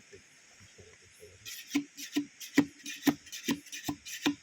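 Steady chopping with a blade, about two strikes a second, each a sharp knock with a short hollow ring. It starts about a second and a half in.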